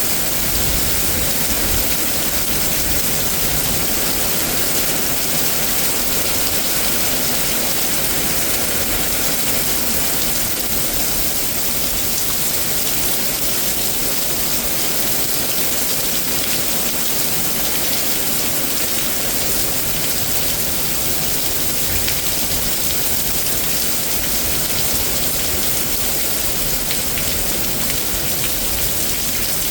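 Heavy, steady rain falling and splashing on surfaces during a severe thunderstorm, a dense even hiss that does not let up.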